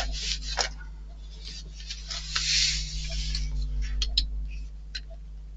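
Small model-kit parts being handled: light clicks and taps, with a brief rustling scrape about two seconds in and a few more clicks near the end, over a steady low hum.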